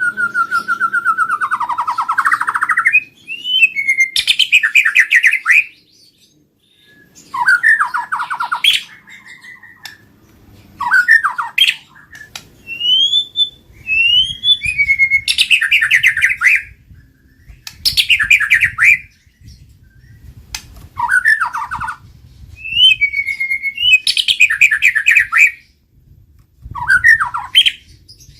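White-rumped shama (murai batu) calling in loud, repeated phrases a few seconds apart. Each phrase is a fast rattling trill, often led in by quick upward-sliding whistles.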